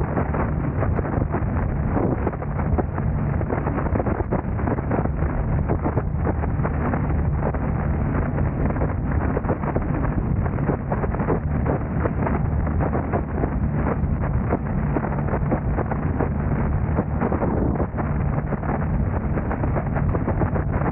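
Steady road and wind noise of a car driving, with wind buffeting the microphone in a dense rapid crackle over a low engine and tyre hum.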